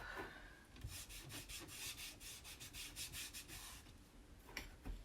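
Cloth rag rubbing stain onto the paper edge of a board in quick back-and-forth strokes, about four or five a second for some three seconds, with a single click near the end.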